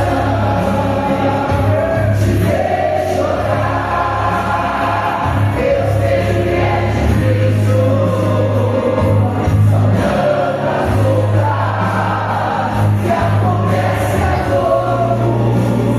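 Choir singing a gospel song over accompaniment with long-held low bass notes.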